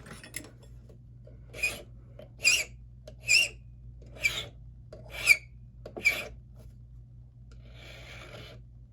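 Hand file rasping across an SC1 key blank in six short strokes about a second apart, then two softer, longer strokes near the end: a cut is being filed down while impressioning a key to the lock.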